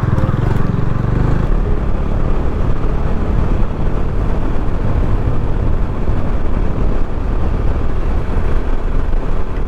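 Motorcycle being ridden on the road: engine running under a steady rush of wind noise on the microphone, the engine note most distinct in the first second or so.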